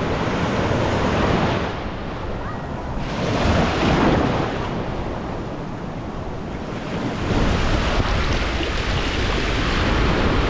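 Ocean surf breaking and washing up the beach, swelling and easing in several surges, with wind rumbling on the microphone.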